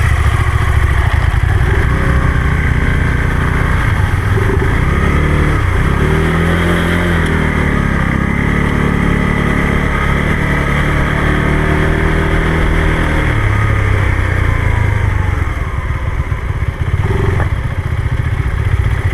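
Motorcycle engine running while riding, its pitch rising and falling with the throttle through the middle of the clip, over a steady rushing noise.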